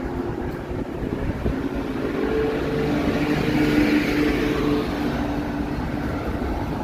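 Motor vehicle engine running close by in traffic, its hum swelling to a peak about four seconds in and then easing off as it passes.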